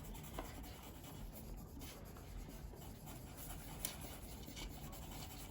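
Faint scratching of a coloured pencil on paper as an area of the drawing is shaded in.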